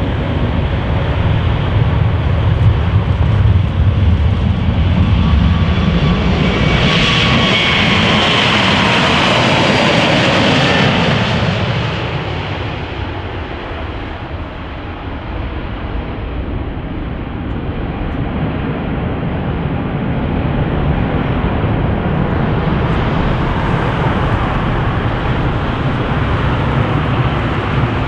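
Aircraft engines passing close by: a loud engine noise with a high whine that peaks about eight to ten seconds in, then drops in pitch and fades as the aircraft goes past. A second, smaller swell of engine noise builds near the end.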